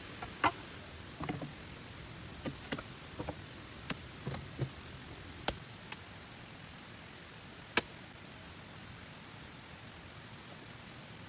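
Steady rain hiss with scattered short, sharp knocks and clicks of hand work, about a dozen in the first eight seconds. A faint, steady high tone comes in about six seconds in.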